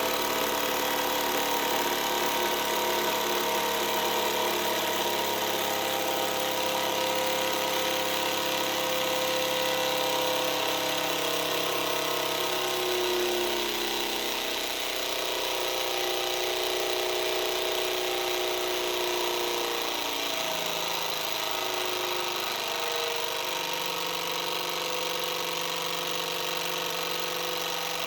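Model Stirling engine running on unlubricated bearings, a steady mechanical whirr whose speed wavers about halfway through and again about two-thirds through. It runs over the steady hiss of the LPG gas-stove burner heating it.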